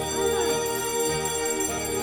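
An alarm bell ringing continuously, a held metallic ring with many steady tones, signalling the start of an earthquake drill.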